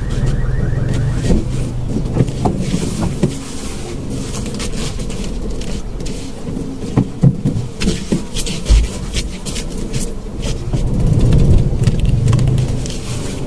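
A car engine runs with a steady low hum, over scattered knocks and rattles.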